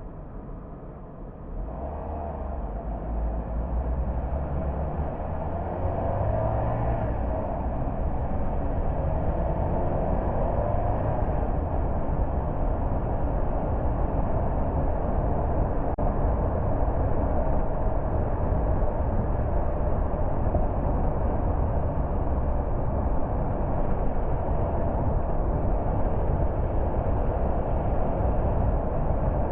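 A car driving on the road, with steady engine and tyre rumble. It grows louder over the first few seconds and then runs at a constant level.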